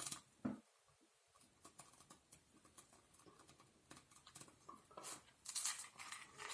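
Faint clicks and rustles of small objects being handled on a table, with a short cluster of louder scraping rustles near the end.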